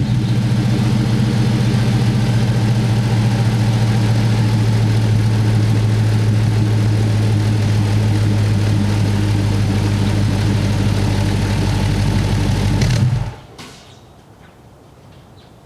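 2010 Dodge Challenger SRT8's 6.1-litre HEMI V8 idling steadily through its exhaust, then shut off about 13 seconds in, the sound stopping abruptly. A few faint clicks follow.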